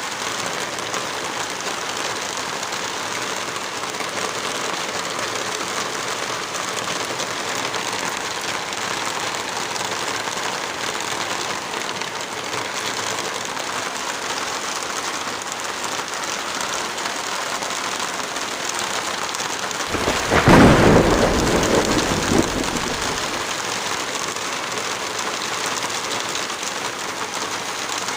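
Heavy rain falling in a steady hiss. About two-thirds of the way through, a clap of thunder breaks in and rumbles away over a few seconds.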